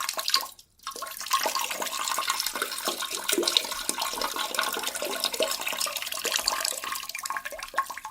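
Water rushing and splashing, with a brief break a little under a second in, then running steadily for about seven seconds.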